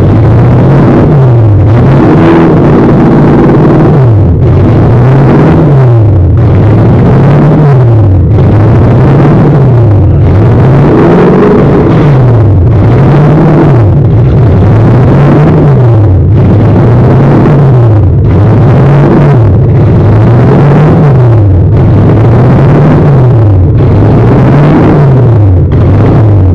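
Toyota 1UZ-FE V8 engine in a GAZ-24 Volga, revved over and over: the engine note rises and falls about every two seconds.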